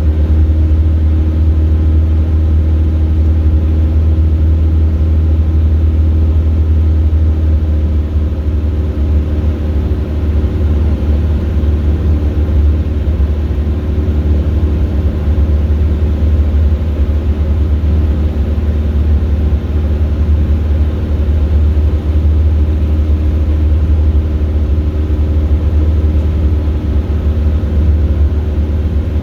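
Robin DR400 light aircraft's piston engine and propeller droning steadily at cruise power, with a deep, even hum and no change in pitch.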